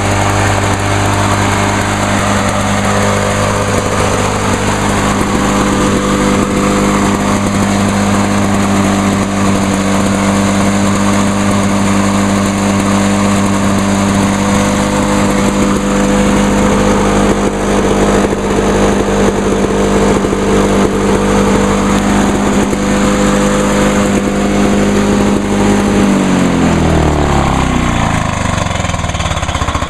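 Lawn-Boy 8461 Commercial mower engine running steadily with a warm engine. About 26 seconds in its pitch falls steadily as the engine slows.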